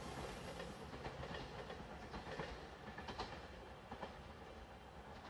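Shiokaze limited express train receding down the line, its wheel-on-rail noise fading away, with a few faint clacks over the rail joints.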